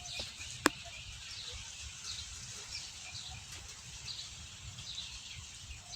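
Small birds chirping, short high notes repeating about every half second over a low outdoor rumble, with one sharp click about two-thirds of a second in.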